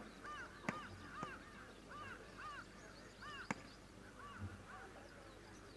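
Faint bird calls: many short chirps that rise and fall, several a second, with a few sharp clicks among them.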